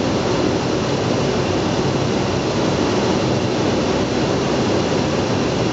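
Steady rush of airflow and jet engine noise inside an airliner cockpit in flight, even and unchanging.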